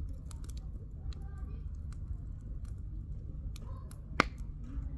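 Firewood burning in a campfire, crackling with scattered small pops and one loud snap about four seconds in, over a low steady rumble.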